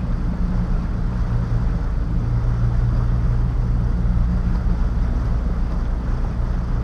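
Boat engine running steadily under way: an even, low drone with a hiss of water and wind over it.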